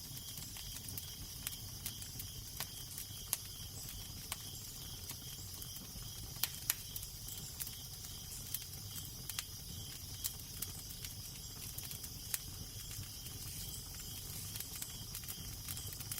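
Crackling fire: irregular sharp pops and snaps over a steady low rumble of wind, with a faint, evenly pulsing high chirring in the background.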